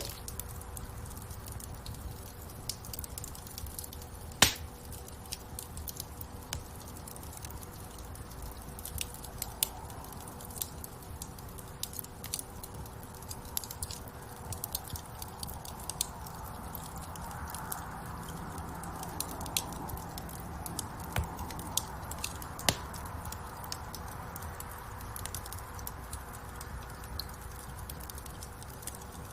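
Wood fire in a fireplace crackling: a steady scatter of small snaps and a few louder pops over a low, even rumble of the flames.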